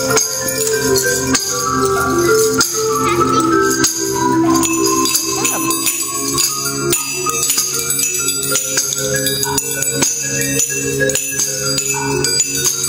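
A melody with a steady beat, with small metal percussion instruments shaken and struck over it: tambourine jingles and bells.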